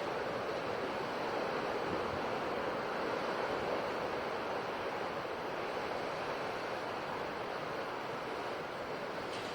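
Ocean surf washing onto a coast, a steady rushing wash with no distinct single breakers.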